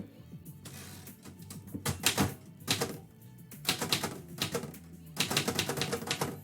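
Typewriter keys clacking in quick runs of typing with short pauses between them, over soft background music.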